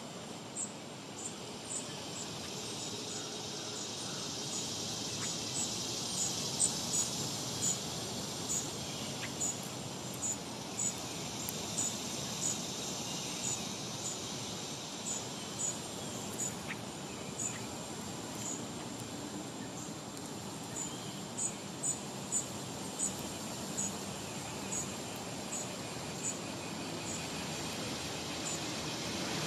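Outdoor bird and insect sounds. Thin, very high chirps repeat about once or twice a second, with a short pause in the middle, over a steady high hiss of insects.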